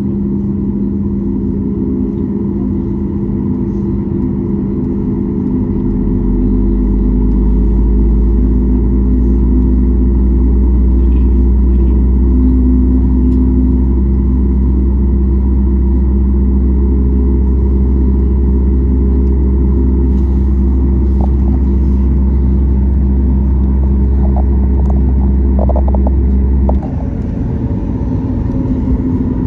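Cabin noise of a Boeing 737 MAX 8 with its CFM LEAP-1B engines running: a steady engine hum with a deep rumble that comes in a few seconds in and drops away suddenly near the end.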